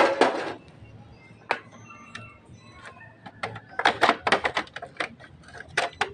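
Tools and carburetor parts clicking and clattering as they are handled: a loud clatter at the start, a single click about a second and a half in, then a quick run of clicks around four seconds in and a couple more near the end.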